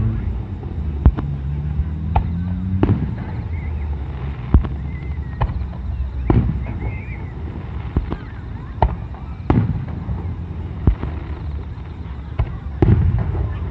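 Fireworks display: a dozen or so sharp bursts at irregular intervals, roughly one a second, each with a short echoing tail, over a steady low rumble.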